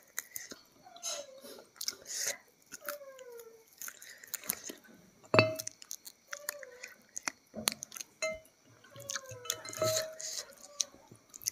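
Close-miked mouth sounds of someone eating fried chicken off the bone by hand: chewing, smacking and wet clicks, with a sharper knock about five seconds in.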